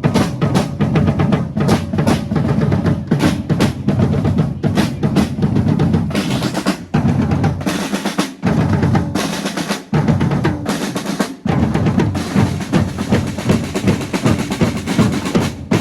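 A drum band playing: rapid snare drum rolls over a steady bass drum beat, with a few short breaks in the middle.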